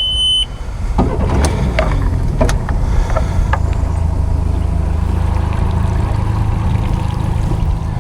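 Jon boat's outboard motor running steadily, coming up to a constant speed about a second in, with wind noise and a few knocks. A short high beep sounds at the very start.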